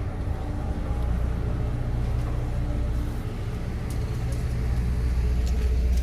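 Steady low machinery hum inside the docked SeaBus passenger ferry's cabin, from the vessel's engines and onboard systems running while it waits to depart.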